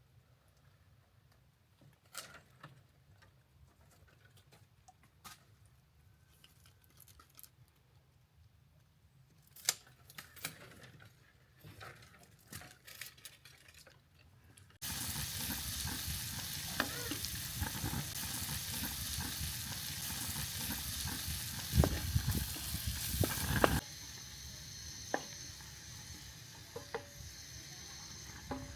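Scattered quiet clicks and knocks of kitchen handling, then food frying in a hot pan starts suddenly with a loud, steady sizzle and sharp clatters of a utensil stirring against the pan. Near the end the sizzle drops to a softer hiss.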